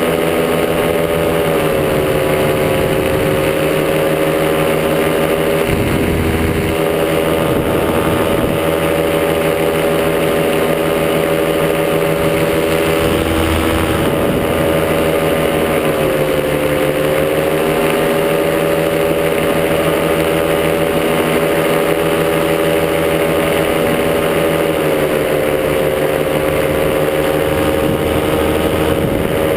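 Miniplane Top 80 single-cylinder two-stroke paramotor engine running steadily in flight, its pitch dipping briefly three times as the throttle eases off.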